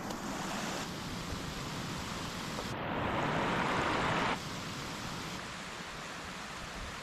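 Steady rushing water noise that jumps abruptly in level and tone several times, loudest and brightest from about three seconds in, then dropping suddenly about a second and a half later.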